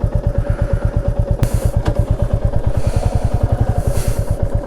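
Motorcycle engine running steadily at low speed with an even, rapid beat. There are a couple of sharp knocks about one and a half and two seconds in, and a rushing hiss near the end.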